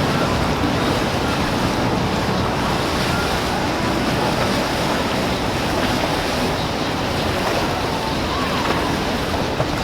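Steady rush of waves and churning water, with wind buffeting the microphone.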